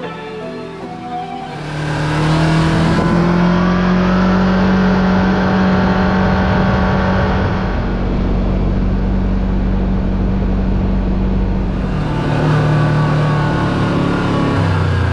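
Side-by-side UTV engine revving up about a second and a half in, then running steadily under load, with its pitch shifting again near the end.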